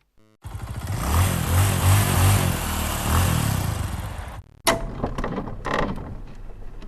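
Two stock sound effects in a row. First comes a loud, noisy rumble with a wavering low throb lasting about four seconds. After a short break comes a run of sharp knocks and clatter.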